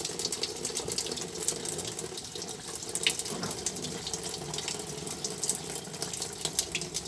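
Water pouring steadily into the tub of a twin-tub washing machine as it is filled, a continuous splashing.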